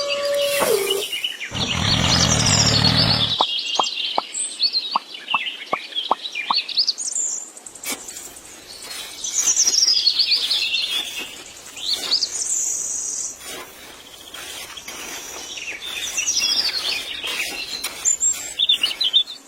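Birds chirping with repeated high, sweeping calls. A low rumble lasts about two seconds near the start, and a quick run of about eight short clicks follows a few seconds in.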